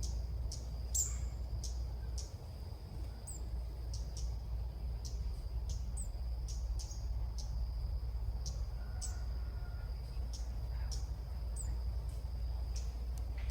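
A steady, high insect-like drone with regular clicks, about one or two a second, and a few short, high, falling bird chirps scattered through it.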